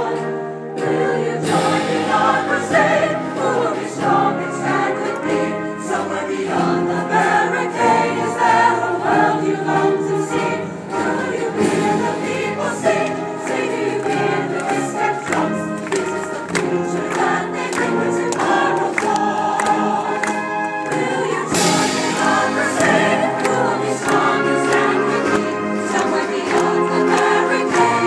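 A choir singing in full harmony, loud and sustained.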